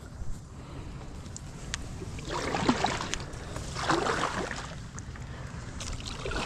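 Kayak paddle strokes in shallow creek water: three swishing splashes, one every second and a half or so, over a low steady rumble of wind on the microphone.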